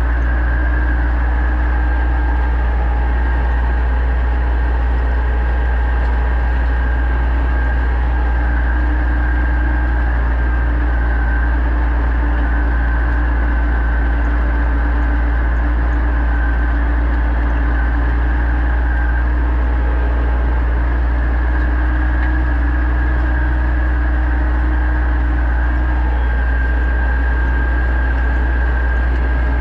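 Pronar 1025A tractor's diesel engine running steadily under ploughing load, a deep, even hum that does not change.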